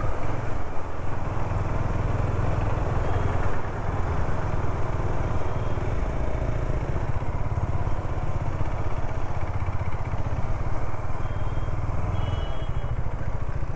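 KTM Duke 250's single-cylinder engine running as the motorcycle rides slowly along a wet street, with road noise. The engine note dips briefly a few seconds in and eases off near the end.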